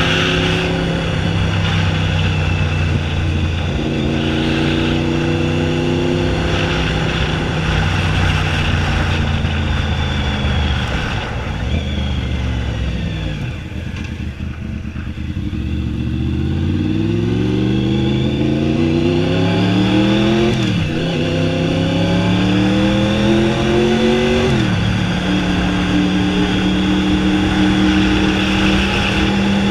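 Honda VFR 750F's V4 engine running through an open exhaust with no muffler. It holds a steady speed, eases off about twelve seconds in, then pulls up through the revs with upshifts about twenty-one and twenty-five seconds in, before settling back to a steady cruise.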